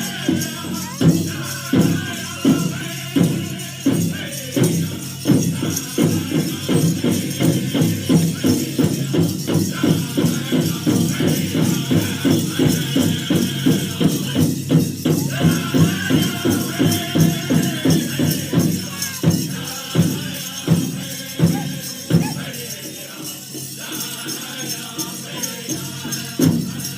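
Powwow drum group singing to a steady beat on a shared drum, about two strokes a second, with jingling rattle-like sounds over it. The drumming softens for a few seconds, then hard strokes come back near the end.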